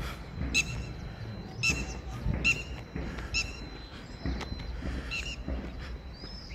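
A bird calling repeatedly: five short calls, four of them about a second apart, then a last one a little later, over a low rumble.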